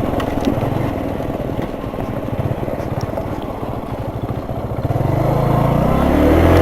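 Hero Super Splendor BS6's 125 cc single-cylinder engine ticking over at low revs, then revved up about five seconds in, rising in pitch and getting louder.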